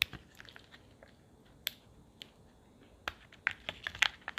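Sharp plastic clicks and taps from a Kinder Joy egg and its toy capsule being handled, a few spaced out at first and then coming quickly near the end.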